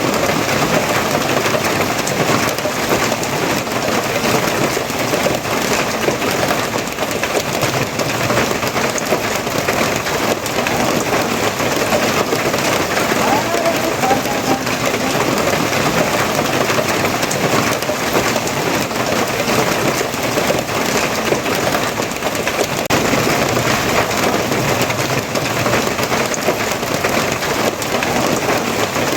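Steady rain falling, a dense, even patter that keeps up without a break.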